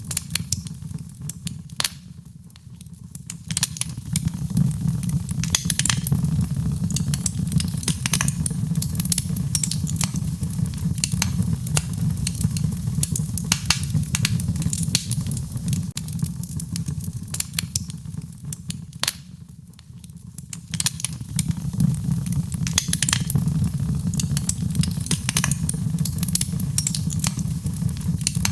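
Wood fire in a fireplace crackling, with frequent sharp pops and snaps over a steady low rumble of the flames. It briefly goes quieter twice, about two seconds in and again near twenty seconds.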